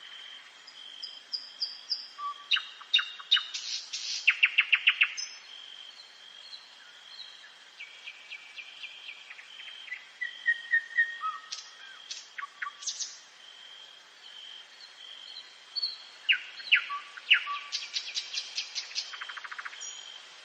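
Nightingale singing at night: three song phrases, each a run of fast repeated notes and trills. They are set apart by short pauses, with a steady high thin tone behind.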